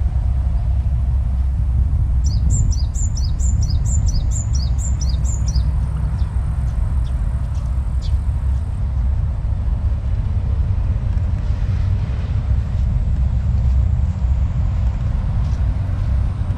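A bird gives a quick run of about a dozen high chirps, about three a second, a couple of seconds in, then a few fainter calls, all over a steady low rumble.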